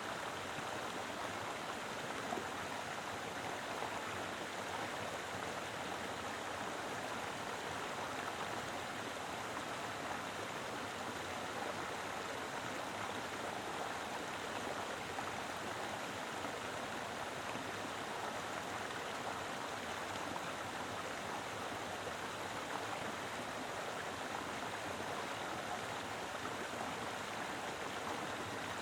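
Mountain river flowing strongly over rocks: a steady, even rush of water with no change in level.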